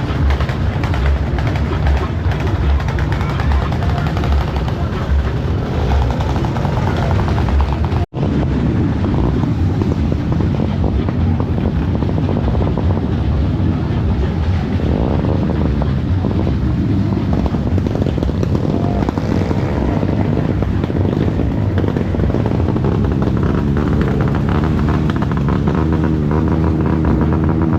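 Motorcycle engines running loud and low, their pitch rising and falling as they rev. The sound drops out for an instant about eight seconds in.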